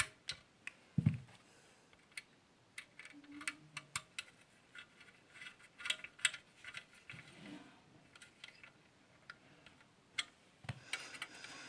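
Scattered small clicks and taps at irregular intervals from handling the parts of an electric iron and the tools being used on it during rewiring. There is a duller knock about a second in and another near the end.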